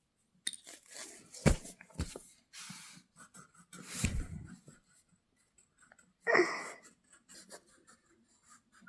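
Coloured pencil scratching on paper as a worksheet picture is coloured in, with a couple of sharp knocks and a short breathy sound about six seconds in.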